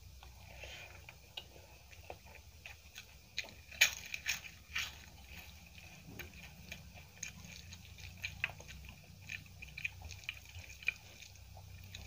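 Chewing and crunching of a mouthful of rice mixed with crushed papad, with a cluster of sharp crunches about four seconds in the loudest. Later, fingers mix rice and aloo curry on a steel plate, making soft wet squishes and clicks.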